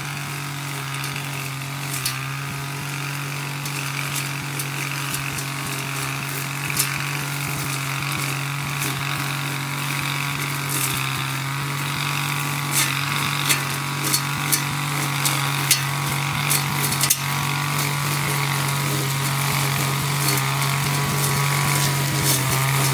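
A 25cc two-stroke brush cutter runs at a steady speed while cutting grass. From about halfway through, sharp clicks and ticks come as the cutting head strikes debris.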